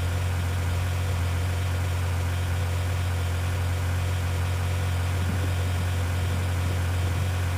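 A vehicle engine running steadily, a constant low drone with no change in pitch or level.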